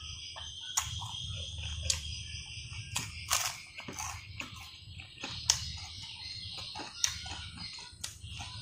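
Close-up mouth sounds of a person chewing crispy fried batter: irregular sharp crunches and crackles, about one every second, between wetter chewing noises.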